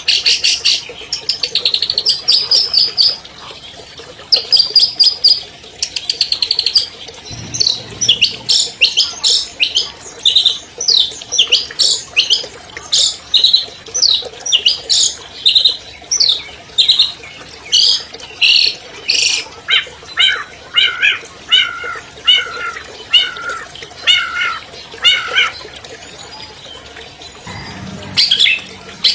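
Long-tailed shrike (cendet) singing a long, varied song: fast trills and chatter, then a run of sharp down-slurred notes, then repeated two-part notes about two-thirds of the way in. It is the loud, full song with mimicked phrases ('full isian') that bird keepers play to set their own birds singing.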